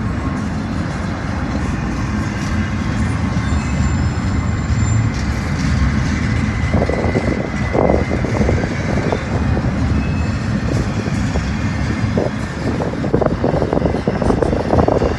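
Freight train rolling slowly past with a steady low rumble, and wind buffeting the microphone in irregular crackling gusts from about halfway through.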